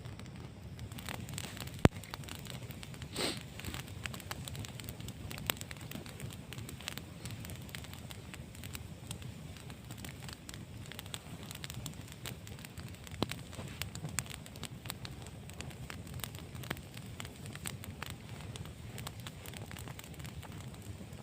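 Wood fire crackling, with scattered irregular pops and one loud snap about two seconds in.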